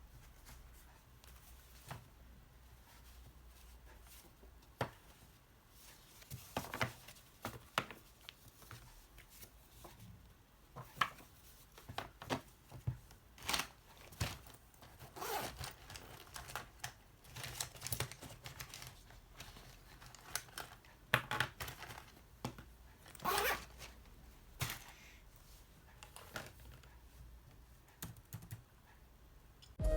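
Quiet, irregular handling sounds in a small room: short clicks, rustles and crinkling, scattered unevenly after a nearly quiet first few seconds.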